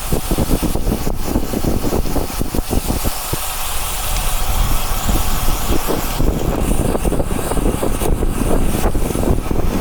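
Wind rushing over an action camera's microphone while riding a bicycle, with road noise, a loud, steady rumble.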